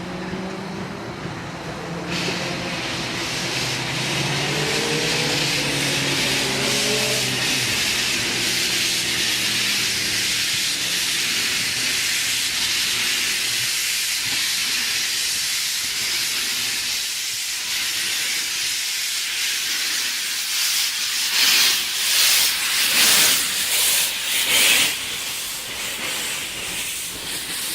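A Ty2 steam locomotive, a two-cylinder 2-10-0 freight engine, hissing steadily with escaping steam as it gets under way. A few pitched tones slide about in the first several seconds. Near the end come several loud, uneven exhaust beats.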